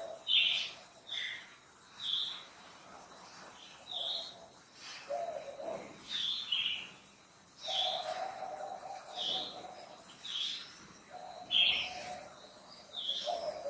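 Wild birds calling in forest: short, high, falling notes repeated about once a second, with a lower, steady call held for a second or two several times.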